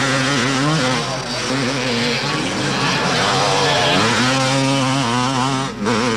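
Motocross motorcycle engines running loud, their pitch rising and falling as they rev. There is a brief drop near the end.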